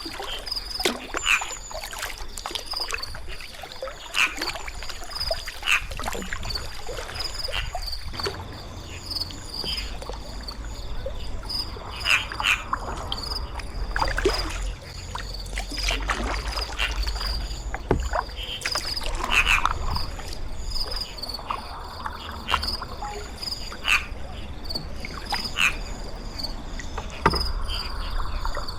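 Kayak paddle strokes dipping and splashing in river water every second or two, over a low rumble, with a steady high chirring behind.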